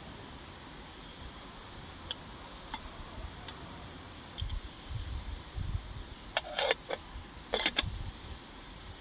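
Light clinks of small metal or glass tableware, then two louder bursts of rattling clatter near the end, over a steady background hiss.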